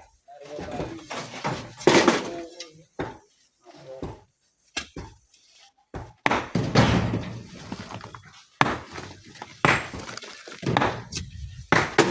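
Rocks knocking and clattering as they are broken and loaded into a dump truck: several separate sharp knocks, with a longer rumbling crash about six seconds in. Men's voices come and go between the knocks.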